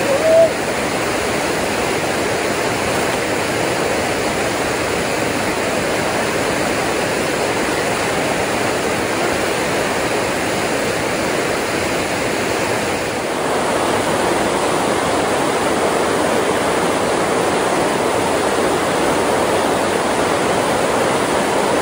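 Creek water rushing steadily over a waterfall, an even, full hiss that gets a little louder about two-thirds of the way in.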